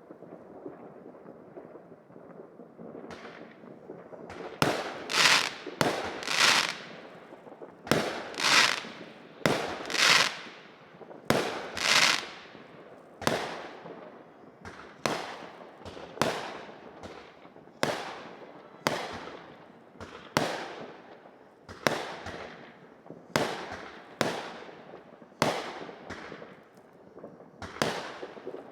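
Fireworks going off: a low rumble, then about three seconds in a steady series of sharp bangs, roughly one a second, each trailing off with an echo. The loudest bangs come in the first half.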